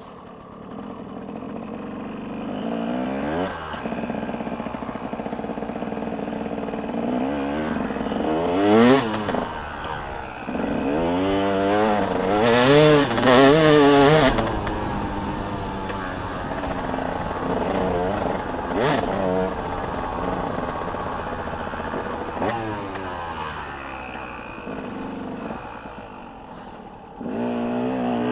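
Motocross dirt bike engines revving and passing, their pitch rising and falling again and again with throttle and gear changes. The loudest passes come about nine seconds in and again around twelve to fourteen seconds.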